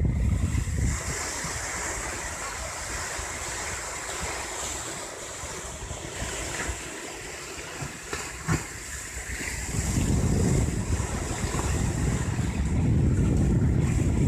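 Wind buffeting the microphone over the rushing of sea water and waves, the low buffeting strongest at the start and again from about ten seconds in. A single short knock comes about eight and a half seconds in.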